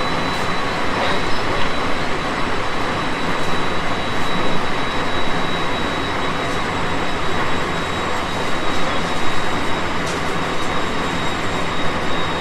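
Running noise of a JR West 223 series 5000 electric train, heard inside the car while it cruises at steady speed: a constant rumble of wheels on rail with a steady high whine and a few faint clicks.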